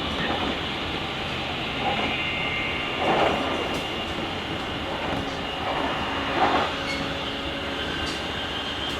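JR Kyushu 883 series Sonic limited express heard from the vestibule deck of a motor car while accelerating at speed: steady traction-motor whine from its GTO-inverter drive over continuous wheel and rail noise. Two brief louder surges come about three seconds and six and a half seconds in.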